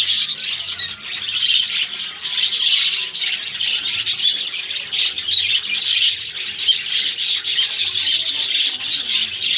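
Small pet parrots, love birds, chattering and chirping continuously in dense, overlapping twittering dotted with sharp clicks.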